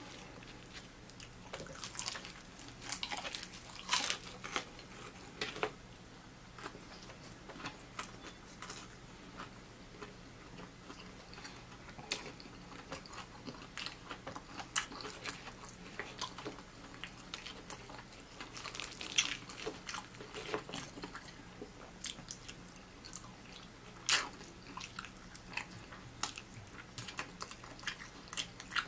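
A person biting and chewing crispy fried chicken, with irregular sharp crunches of the breading.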